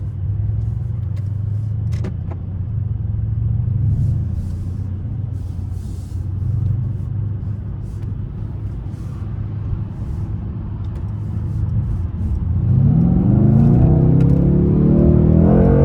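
Mercedes C63 S AMG twin-turbo V8 running with a steady low drone under way, then rising in pitch and getting louder as the car accelerates hard near the end.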